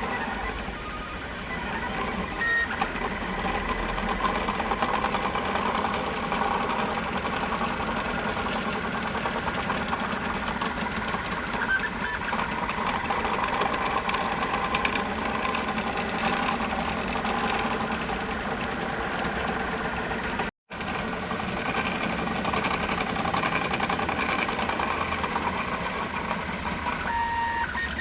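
3D printer running a print, its stepper motors buzzing and whirring in quickly changing tones as the print head moves.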